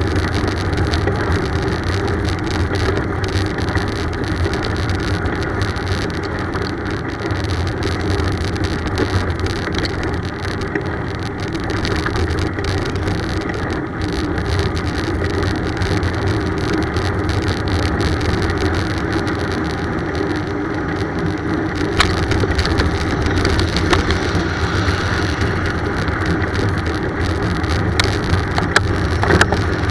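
Steady road noise of a bicycle being ridden, with a few sharp clicks or knocks about three quarters of the way through and several more near the end.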